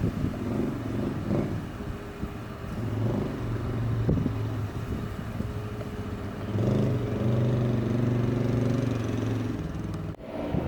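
A motor vehicle's engine running, a steady low hum that grows louder about two-thirds of the way through.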